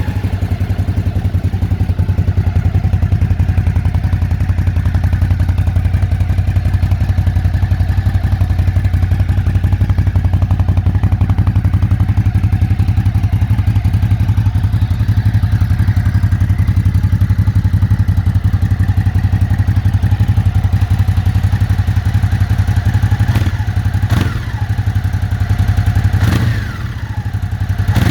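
Ducati Hypermotard 950 SP's 937 cc L-twin running through an Akrapovic exhaust, idling with a steady pulsing beat. In the last few seconds the throttle is blipped a few times, each rev rising and dropping back quickly.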